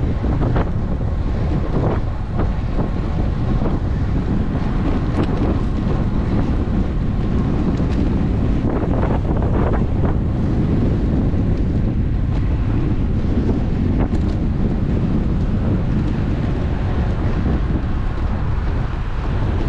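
Wind buffeting an action camera's microphone on a moving road bike: a steady, loud rush of wind noise, with a few faint knocks here and there.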